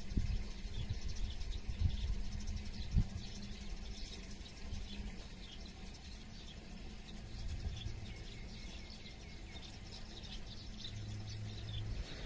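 Small birds chirping and twittering, many short calls overlapping throughout, over a low steady rumble with a couple of dull thumps in the first three seconds.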